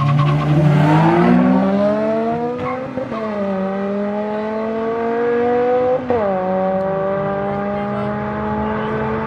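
A car engine accelerating hard through the gears, the pitch climbing steadily, with two upshifts about three and six seconds in that each drop the pitch before it climbs again.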